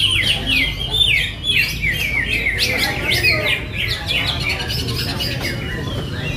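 A chorus of many greater green leafbirds (cucak hijau) singing at once, dense overlapping quick chattering and sweeping phrases with no pause, over a steady low background rumble.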